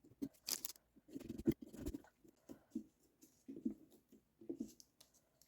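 Faint, irregular scratching and poking of a small carving tool into a pumpkin's skin, punching out the dots for the whiskers.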